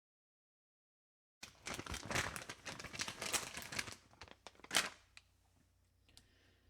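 Crinkling, crackling rustle made of many small clicks, starting about a second and a half in, with one sharper, louder click just before five seconds.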